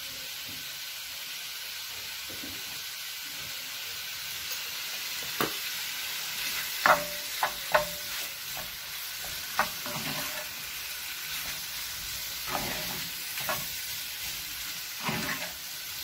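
Prawns sizzling in oil in a cast-iron pan, with a steady hiss, while a spatula stirs them, scraping and knocking against the pan. The knocks start about five seconds in and come in small clusters, a few with a short ring.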